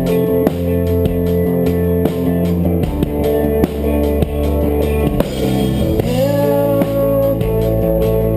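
Band playing live, an instrumental passage of guitar over bass and a steady drum beat. About six seconds in, a held note bends upward.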